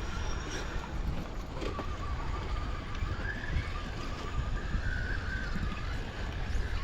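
Electric motor of a radio-controlled scale crawler truck whining as it crawls, its pitch wavering up and down with the throttle, over low wind rumble on the microphone and a few scattered clicks.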